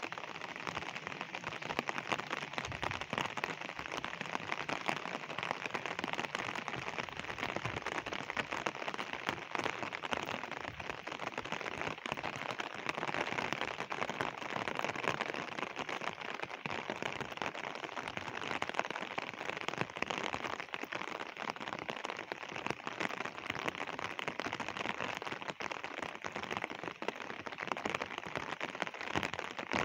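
Steady monsoon rain falling, a constant even hiss with a dense patter of individual drops.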